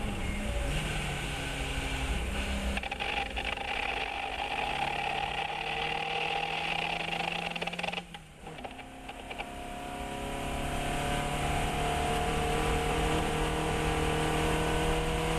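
Fiat 132 race car engine running hard on track, holding a fairly steady note. About eight seconds in, the sound drops away sharply as the throttle is lifted, then the pitch climbs steadily as the engine pulls again.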